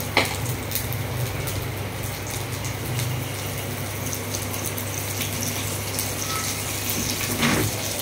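Green chillies sizzling in hot oil with cumin seeds in a frying pan, a steady hiss, with a brief knock near the end.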